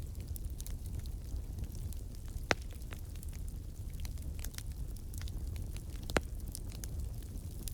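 Wood fire burning in a fireplace: a steady low rumble under continual small crackles, with two louder pops, one about two and a half seconds in and one about six seconds in.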